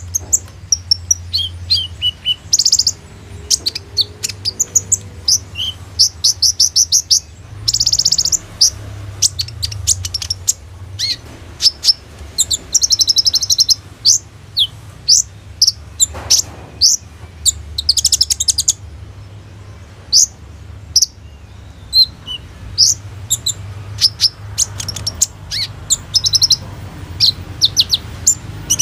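Kolibri ninja sunbird singing a fast, busy song of sharp high chirps and quick rattling trills, phrase after phrase with only brief pauses. A steady low hum runs underneath.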